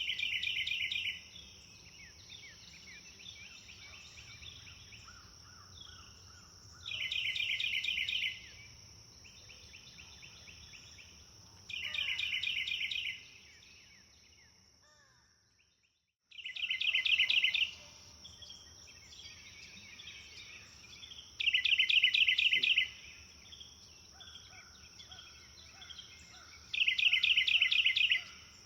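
Songbird dawn chorus: one bird repeats a loud, rapid trill about a second and a half long every five seconds or so, six times in all, over softer chirps from other birds and a steady high-pitched buzz. About halfway through, everything fades to near silence for about a second and then comes back.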